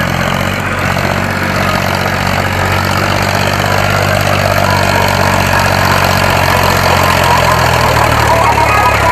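Diesel engine of a tractor or backhoe loader running steadily at an even pitch. Music starts to come in near the end.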